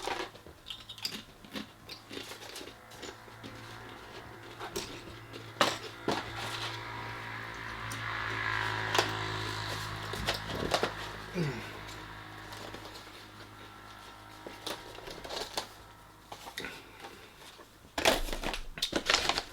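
Tortilla chips being bitten and chewed close to the microphone: scattered sharp crunches over a steady low hum.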